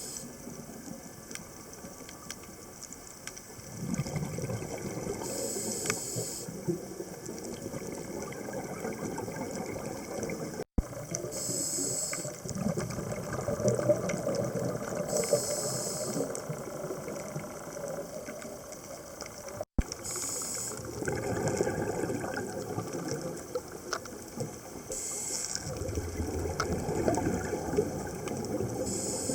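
Scuba diver breathing underwater through a regulator: short bursts of hiss every few seconds, with a bubbling rumble of exhaled air between them.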